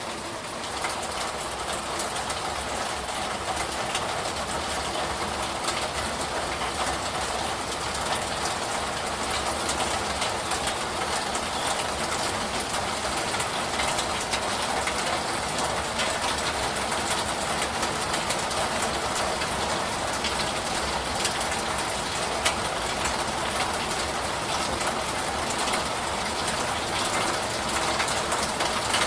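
Steady rain: an even hiss dotted with the small ticks of single drops.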